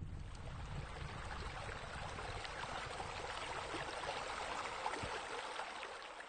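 Running, splashing water, a steady crackling wash that eases off near the end.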